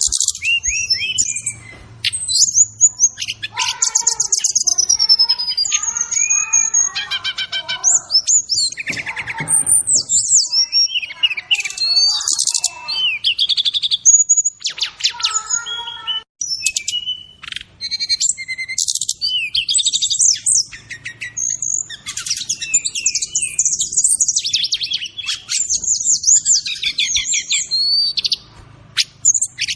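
Brown-chested jungle flycatcher (SRDC) singing a continuous, fast, varied song of chirps, trills and whistles that glide up and down. It is a songbird tutor recording with 'isian' fill-in phrases, some lower in pitch.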